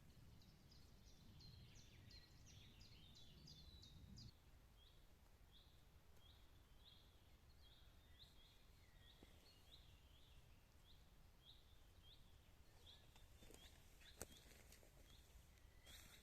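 A single bird calling faintly and repeatedly, with short high calls: a quick run of downward-sweeping notes at first, then one call a little more often than once a second. A low rumble underneath cuts off about four seconds in.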